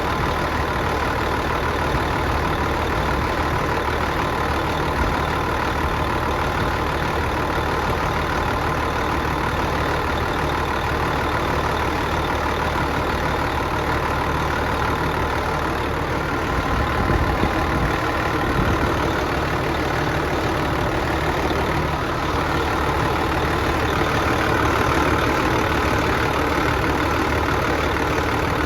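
An engine running steadily at idle, briefly swelling a little about two-thirds of the way through.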